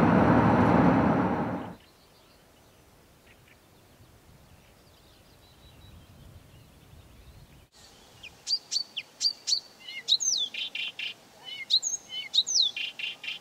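A loud dense wash of noise for the first two seconds, then quiet. From about eight seconds in, a Blyth's reed warbler sings a fast, varied song of sweeping whistles, chirps and short buzzy rattles.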